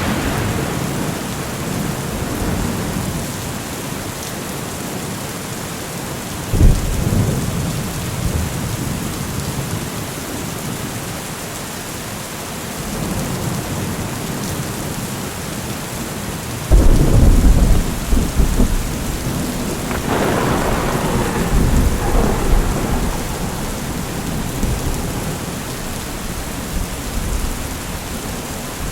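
Steady heavy rain with thunder. A sudden thunderclap and rumble comes about a third of the way in, and a louder, longer rumble a little past halfway rolls on for several seconds.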